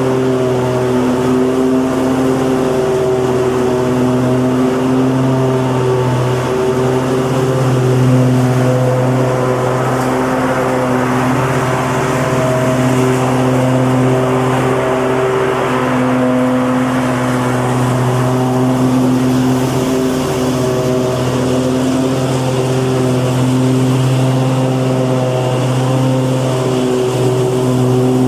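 Lawnmower engine running steadily at an even speed, a constant hum.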